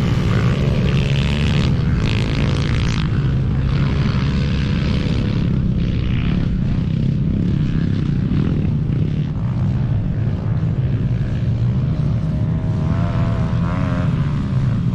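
Several pit bikes racing around the track, their small engines buzzing together in a steady drone, the pitch rising and falling as riders work the throttle.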